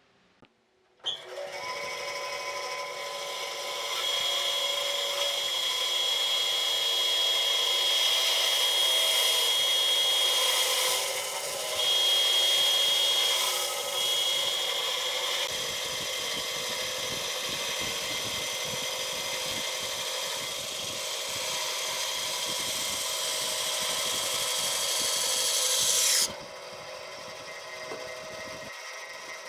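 An electric power tool's motor running with a steady high whine, starting about a second in, dipping briefly in the middle, and dropping suddenly to a quieter level near the end.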